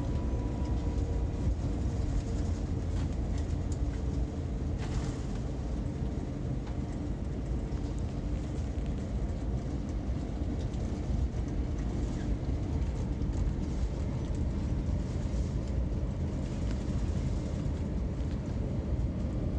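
Airbus A350-900 rolling on the ground after landing: a steady low rumble with no sharp events.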